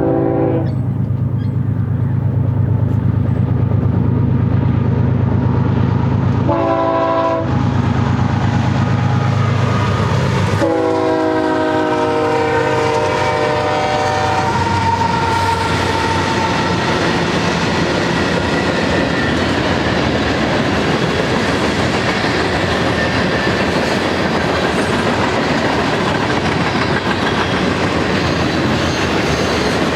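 BNSF diesel freight locomotives pass close by with a multi-tone air horn: a short blast, then a longer one whose pitch drops as the engines go by. The heavy diesel drone gives way to the steady rolling clatter of freight cars.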